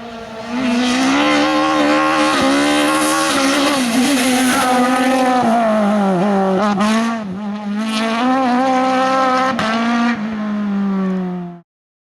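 Hill-climb race car engine at full throttle, its pitch climbing and dropping repeatedly with gear changes and lifts for corners. The sound cuts off suddenly near the end.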